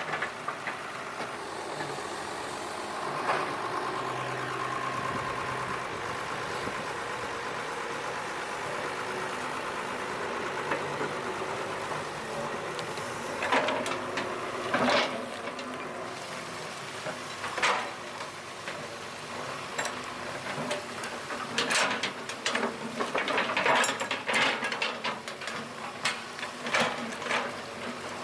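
An engine running steadily, with a series of sharp knocks and clanks starting about halfway through and coming thick and fast near the end.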